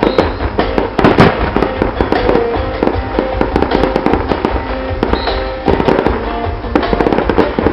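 Fireworks going off in quick succession: many sharp bangs and crackles, the loudest about a second in, with music playing underneath.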